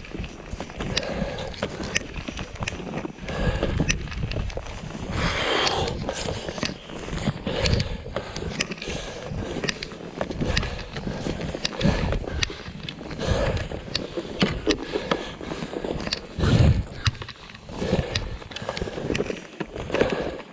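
Skis scraping and clattering over snow, with irregular sharp clicks, while wind gusts rumble on the microphone.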